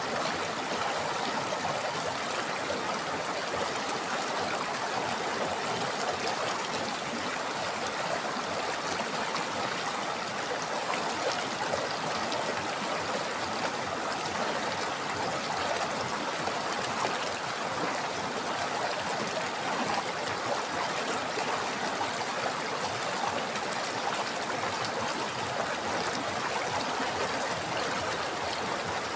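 River water flowing over rocks, a steady rushing and babbling with no breaks. A faint steady hiss sits high above it.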